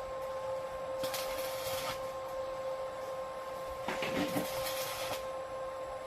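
Welding machine running with a steady high-pitched hum over a hiss. The hiss swells in stretches, around a second in and again about four seconds in.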